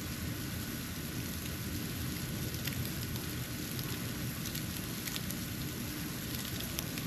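Snow falling: a steady hiss over a low rumble, with scattered faint ticks of flakes landing.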